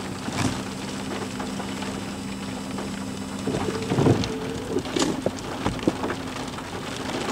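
Rain ticking on a parked vehicle, over the steady low hum of its idling engine.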